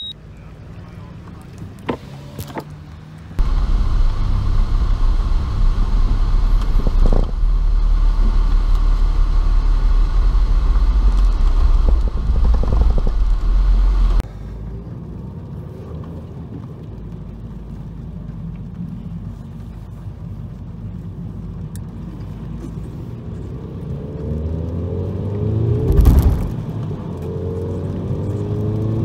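Volkswagen Golf Mk6 GTI's turbocharged 2.0-litre four-cylinder heard from inside the cabin, running at low speed, with a heavy low rumble for about ten seconds in the first half. Near the end the engine note rises as the car accelerates, and there is a sharp loud thump about three seconds before the end.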